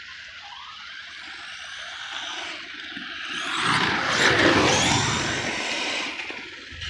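Redcat Shredder 6S RC monster truck driving on dirt: the brushless motor's whine rises and falls with the throttle over tyre noise, growing louder to a peak about four seconds in and then fading.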